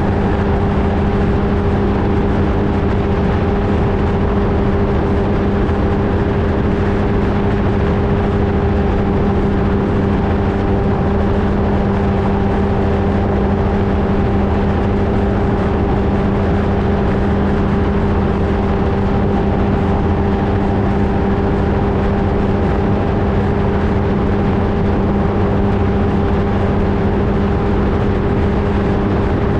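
Flightstar II ultralight's engine and propeller droning at one steady pitch, with no change in power, over a constant rush of noise.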